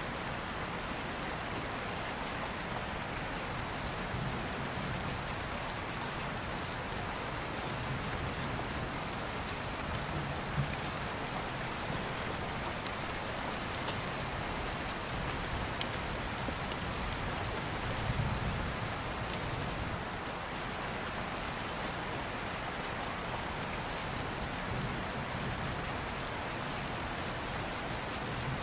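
Steady rain with two low, soft thunder rumbles swelling, about a third and two thirds of the way through, and scattered sharp crackles from an open fire.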